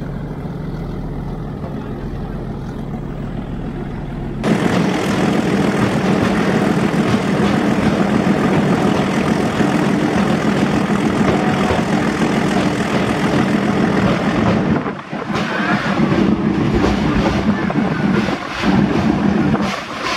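Metre-gauge heritage train running uphill, with a diesel locomotive at the front and a banker locomotive pushing at the rear: a steady engine hum and wheel-on-rail noise. It becomes suddenly much louder about four seconds in and dips briefly twice near the end.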